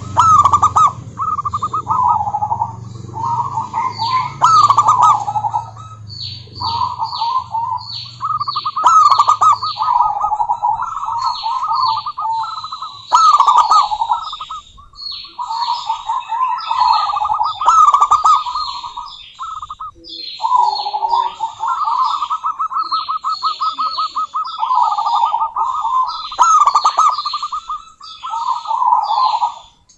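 Zebra doves calling: phrase after phrase of rapid, trilling coos, with high, quick downward chirps over them. A low hum sits underneath for the first several seconds, then fades.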